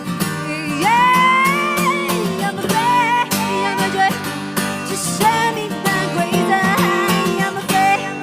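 Acoustic guitar playing under a sung melody of long held notes that slide between pitches, the first entering with an upward scoop about a second in.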